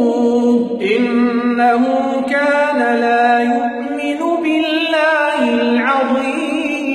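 Male voice reciting the Quran unaccompanied in a melodic tajweed style, drawing out long ornamented notes that step up and down in pitch.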